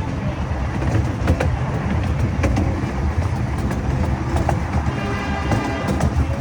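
Zoo train rolling along its track, heard from on board: a steady low rumble with scattered clicks from the wheels on the rail joints. A faint high tone comes in near the end.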